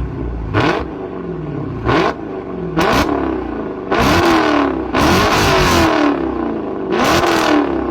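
Dodge Challenger engine revved repeatedly in short throttle blips, each a quick rise in pitch followed by a slower fall back toward idle, about six in all, the later ones held a little longer.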